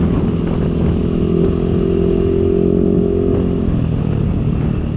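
Motorcycle engine running at a steady pace while riding, with rushing noise underneath; the steady engine note falls away near the end as the bike slows.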